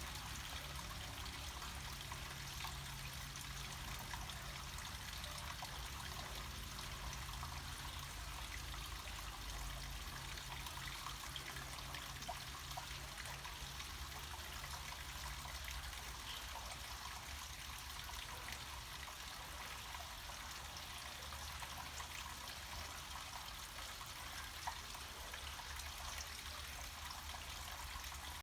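Water running steadily down a small mountain cascade, a constant even trickling rush over a low rumble.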